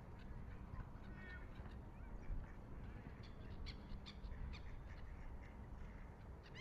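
Birds calling with many short, repeated calls, thickest in the middle, over a low steady town rumble.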